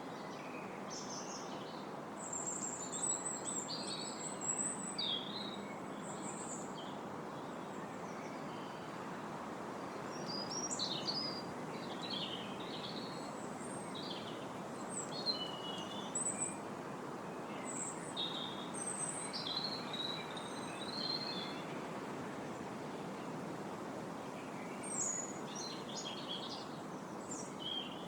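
Wind rustling steadily through the trees' leaves, with several birds chirping and singing short, high phrases throughout.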